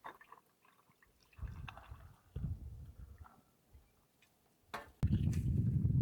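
Wind buffeting the microphone in gusts, turning into a steady low rumble about five seconds in, with a few light clicks and knocks.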